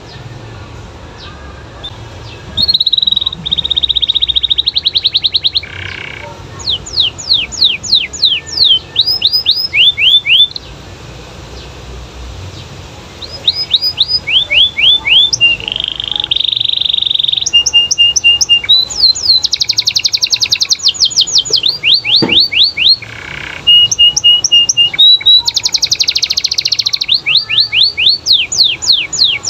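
Domestic canary in full, vigorous song: rapid trills, rolls and fast runs of repeated downward-sweeping notes. The song starts about two and a half seconds in, stops for a few seconds near the middle, then goes on almost without a break.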